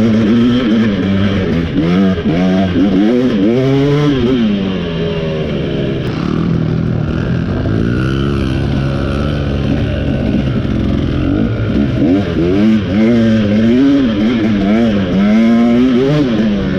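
Single-cylinder two-stroke engine of a KTM 300 XC dirt bike being ridden, its revs rising and falling over and over with the throttle. It settles lower and steadier for a few seconds midway, then swings up and down quickly again near the end.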